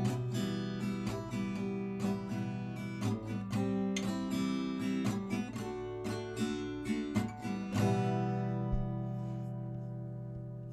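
Acoustic guitar playing the closing bars of a song, strummed and picked chords, then a final chord struck nearly eight seconds in that rings out and slowly fades.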